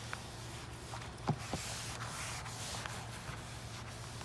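A Magic Eraser melamine sponge rubbing across algae-covered vinyl siding, an uneven scrubbing hiss, with a couple of light knocks about a second and a half in.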